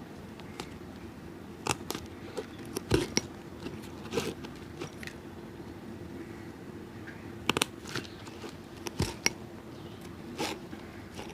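Cobbler working a shoe by hand: irregular sharp clicks, taps and crunches, some in quick pairs, over a steady low hum.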